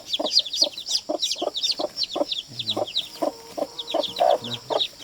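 Flock of chickens calling, with short clucks several times a second and many high chirping calls overlapping above them.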